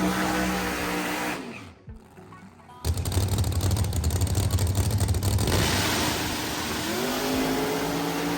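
Drag-race car engines: a held rev fades away, then a sudden loud launch about three seconds in and the engines run hard down the track, with a rising rev near the end.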